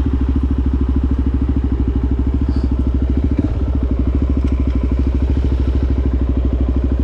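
A 2020 Suzuki DRZ400 SM's single-cylinder four-stroke engine idling steadily through a Yoshimura exhaust, a fast, even pulse that holds the same pace throughout.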